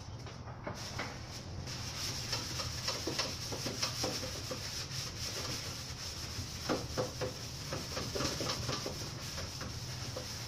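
Aerosol spray-paint can hissing steadily from about two seconds in, with scratchy rubbing and tapping noises over it.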